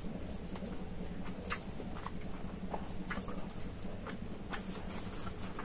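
Close-miked eating by hand: chewing rice and chicken with scattered wet mouth clicks and sharper ticks, over a low steady hum.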